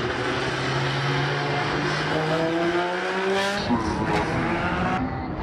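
Drift car's engine running at high revs, its pitch climbing steadily for about three and a half seconds, then dropping off abruptly.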